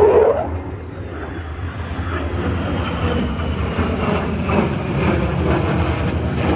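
Jet aircraft flying past: a loud swell of engine noise right at the start that dies away within about a second, a faint whine falling in pitch, then a steady rumble of jet noise.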